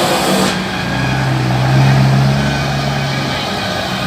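Truck engine running, with a steady low note held for about two seconds in the middle.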